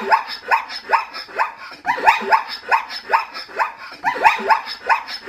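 A wild canid barking in quick, high yips that drop in pitch, about three a second, in three bouts roughly two seconds apart.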